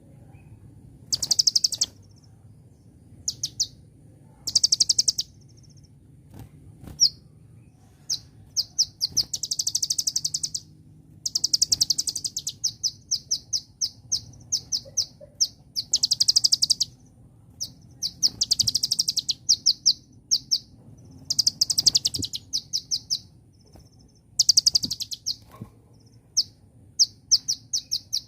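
Kolibri ninja (konin) sunbird singing: bursts of very rapid high trills alternating with strings of sharp, evenly spaced chips, with short pauses between phrases, over a faint low hum.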